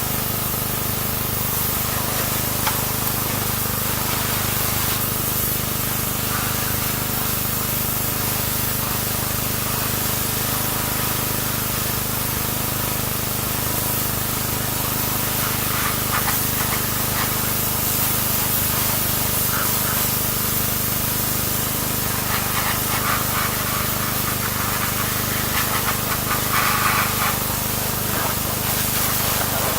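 Pressure washer running with its water jet spraying and hissing steadily over the machine's steady hum, with a few brief louder splashes.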